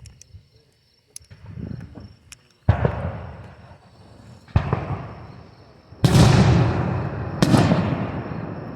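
Aerial fireworks shells bursting: four loud booms about one and a half to two seconds apart, starting near three seconds in, each trailing off in a long echoing rumble, the last two the loudest. Fainter crackles come before them.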